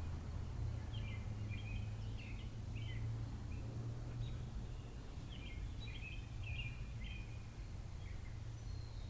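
Small birds chirping, with short chirps coming every second or so, over a steady low hum.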